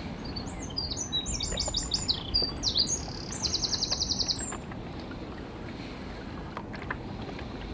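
A songbird singing one phrase of about four seconds: a run of varied high chirps, then a fast even trill of about ten notes a second that ends abruptly. Steady wind noise runs underneath.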